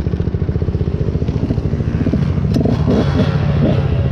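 Dirt bike engine running at low revs with an even pulse, then revving up and down from about halfway through.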